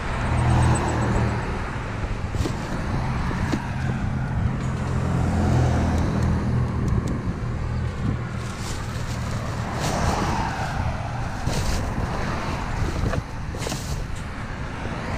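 A motor vehicle engine running steadily with a low rumble that weakens after about eleven seconds, over the crackling rustle of a black plastic trash bag being handled.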